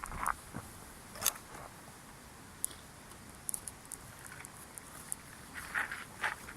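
Wood campfire crackling, with sparse sharp pops and snaps every second or so over a low steady hiss.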